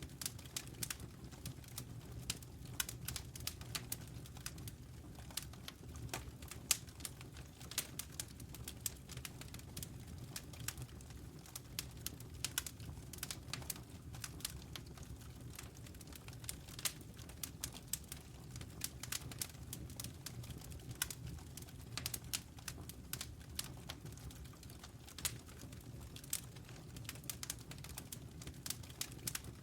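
Wood campfire crackling: many irregular sharp pops and snaps over a low, steady rumble of the flames.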